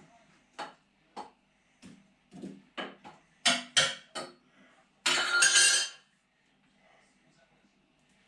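Metal parts and hand tools clinking and knocking on a hard work surface, a dozen or so separate knocks, followed about five seconds in by a loud harsh rasp lasting about a second.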